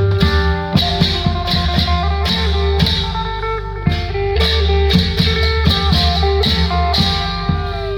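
Loud band music through a PA sound system: a plucked guitar melody over a steady drone, heavy bass and a regular drum beat, with one note bending downward near the end.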